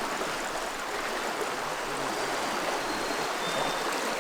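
River water flowing steadily: an even rush from the current of a river running high.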